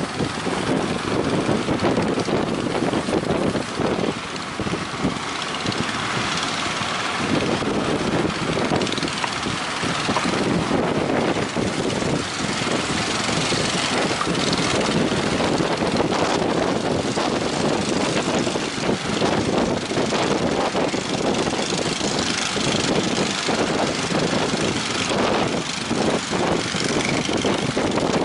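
Motorboat engine running steadily, a dense, even engine noise.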